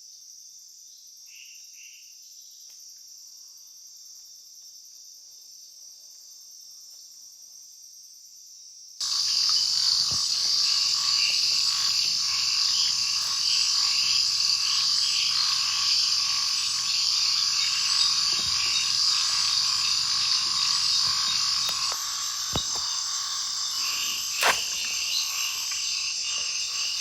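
Night chorus of frogs and insects, a dense continuous trilling and croaking. It is faint at first, then loud and full from about a third of the way through. A couple of sharp knocks come near the end.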